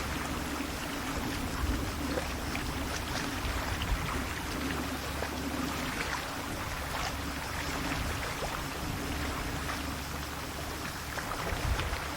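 Calm sea waves washing gently, a steady wash full of small splashes and trickles, over a steady low rumble.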